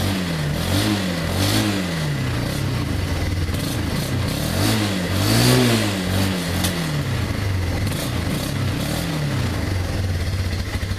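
2001 Yamaha Bear Tracker ATV's single-cylinder four-stroke engine, cold from the start, being revved in repeated throttle blips: several short rises and falls, a bigger rev in the middle, more near the end, then settling to a steady idle. The owner says it has a fuel-starving problem only while the engine is cold.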